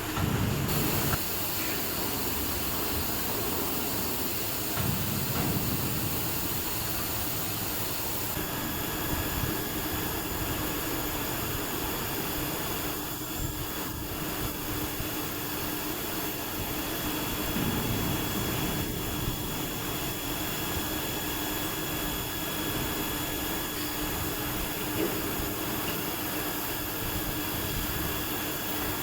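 CNC machining center running: a steady mechanical whirr with a constant hum, joined about eight seconds in by a higher steady whine, and a few brief swells of low rumble.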